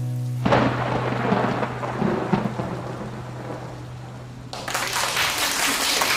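Rain and rumbling thunder as the song's closing sound effect, over a held low note that fades out about five seconds in; the rain grows louder near the end.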